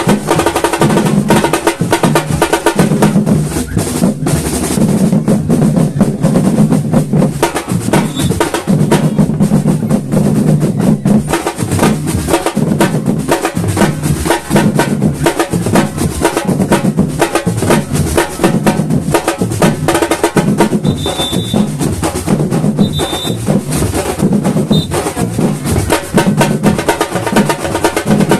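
Samba batucada drum ensemble playing at full volume. Deep bass drums pulse steadily under snare drums and rolls, with a few short high-pitched tones about three-quarters of the way through.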